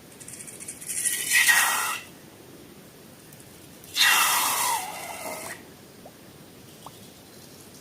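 Balloon letting out air or slime through its neck in two hissing bursts with a faint squeal, the first cutting off suddenly about two seconds in, the second a couple of seconds later.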